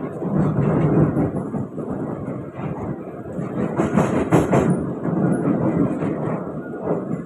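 SMRT C151B (Kawasaki-Sifang) metro train running between stations: steady wheel-on-rail rumble, with a short run of clicks and rattles about four seconds in.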